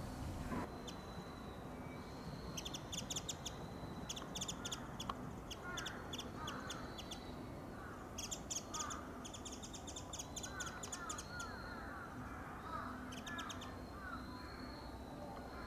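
Wild birds calling: repeated bursts of rapid, high ticking notes, each about a second long, with scattered short chirps.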